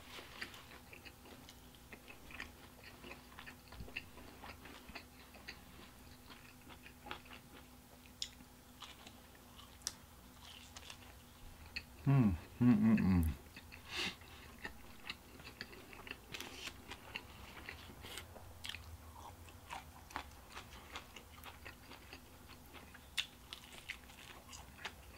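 Close-miked chewing of pizza crust: small wet clicks and crunches all through, with a fresh bite near the end. About halfway through comes a short hummed sound from the eater, the loudest moment.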